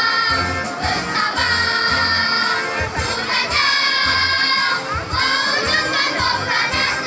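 Choir singing held notes over instrumental accompaniment with a steady low beat.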